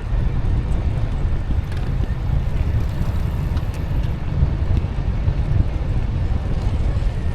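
Wind buffeting the microphone of a moving e-bike, a steady low rumble that rises and falls in strength.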